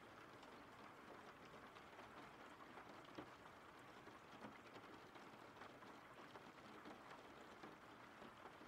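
Faint steady rain, a soft hiss with scattered small drop ticks.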